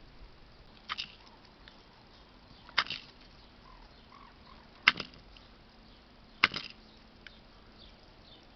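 Four sharp knocks, roughly two seconds apart, over a quiet background.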